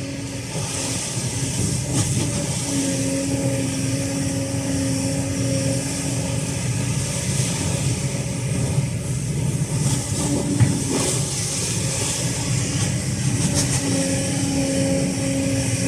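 Kobelco SK210LC hydraulic excavator running, its Hino J05E diesel engine giving a steady low rumble. A whine comes in three times for a few seconds each as the machine works.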